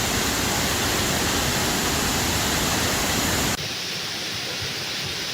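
Fast-flowing creek water rushing over rocks, a loud steady roar. About three and a half seconds in it drops suddenly to a quieter, thinner rush.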